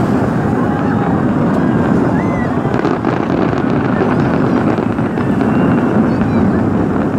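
Large fireworks display heard from afar: a dense barrage whose bangs merge into a steady, loud rumble.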